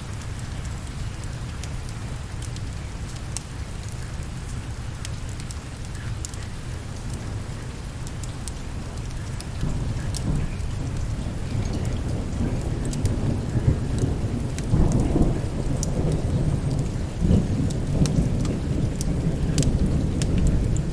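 Steady rain with thunder rolling in about halfway through, building to deep swelling rumbles, while a wood fire crackles with scattered sharp pops.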